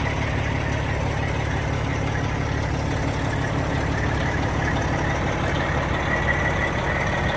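Big-rig semi-truck diesel engine idling steadily.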